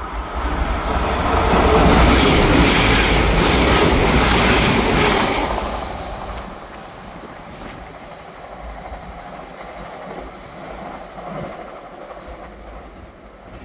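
Class 197 diesel multiple unit passing close at speed, loudest from about two to five seconds in, with wheels clattering over the rails. It then fades quickly as it runs away down the line.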